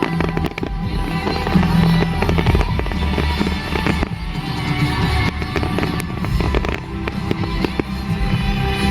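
Display fireworks bursting and crackling in quick irregular succession, over music playing loudly.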